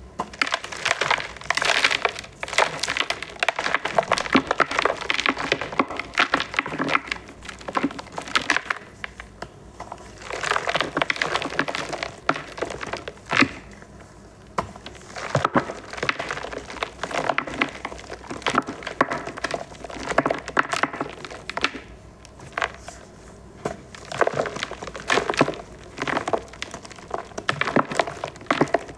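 Dyed green reformed gym chalk balls being crushed, crunching and crackling in bouts of many small cracks with short lulls between them.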